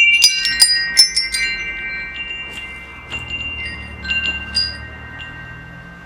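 Metal wind chimes: a quick cluster of clangs at the start, then scattered single strikes over several ringing tones that slowly fade.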